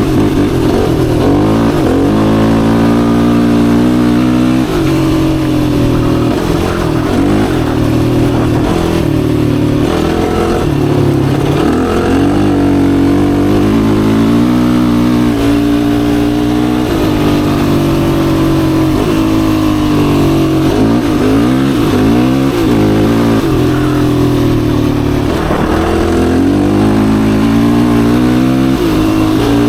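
Yamaha YFZ450R sport quad's single-cylinder four-stroke engine under way, its pitch climbing and dropping again and again as the throttle is worked on and off.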